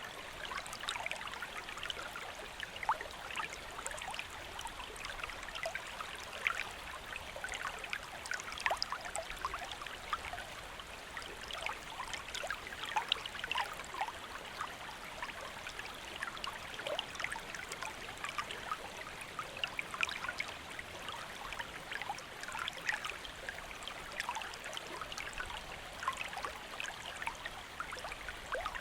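Shallow river or stream flowing steadily, water babbling and trickling over rocks with many small splashes and gurgles.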